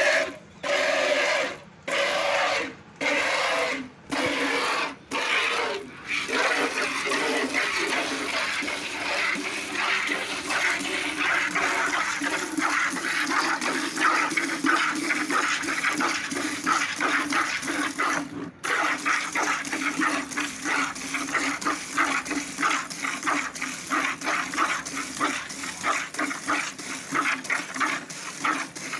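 Cow being milked by hand, jets of milk squirting into a bucket. For the first few seconds the spurts come about once a second, then they settle into a fast, steady rhythm of squirts.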